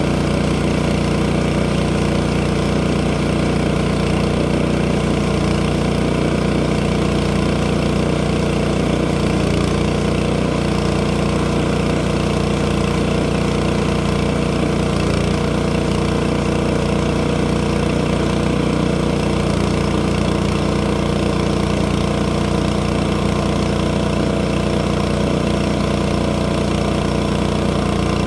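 Portable sawmill's engine running at a steady, unchanging speed.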